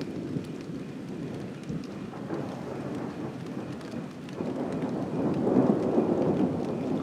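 Thunder rumbling over steady rain, the rumble swelling louder about four and a half seconds in.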